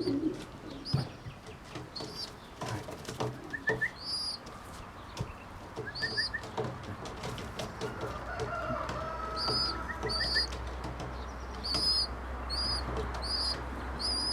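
Racing pigeons crowding round to be hand-fed peanuts: wing flaps and quick pecking taps, with short high chirping calls repeated through the second half.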